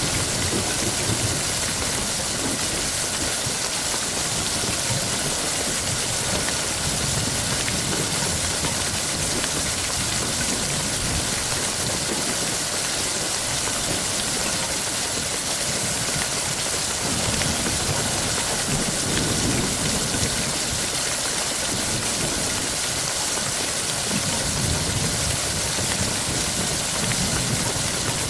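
Heavy rain falling steadily, with low thunder rumbles swelling and fading several times underneath.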